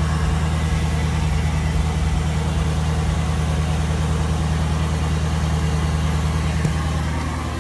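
Ford 6.7 L Powerstroke V8 turbodiesel idling steadily shortly after a cold start in freezing weather, heard through a 4-inch turbo-back exhaust. The level dips slightly near the end.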